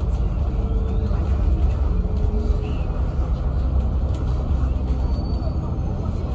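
Steady low rumble of a double-decker bus running, heard from inside the bus.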